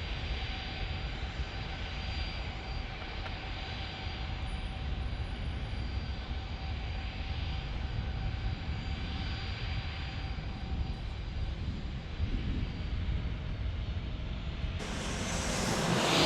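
Jet airliner engines running steadily, a low rumble with a thin high whine, growing louder near the end.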